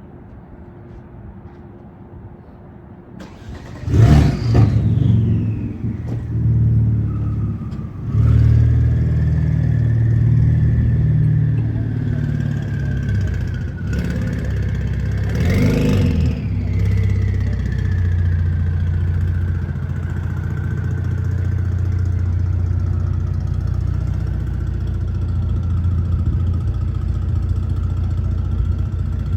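Kia Stinger GT's twin-turbo V6 starting about four seconds in with a loud flare, then running at a low rumble, revving up sharply once about midway before settling into a steady idle.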